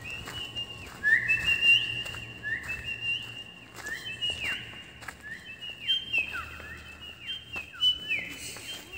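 Birds calling: a steady run of high, clear whistled notes, each held and then sliding down, several overlapping one another. Faint footsteps crunch on gravel underneath.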